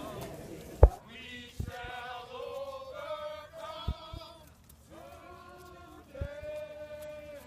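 A group of people singing together in slow, held notes. Several dull thumps break in, the loudest about a second in.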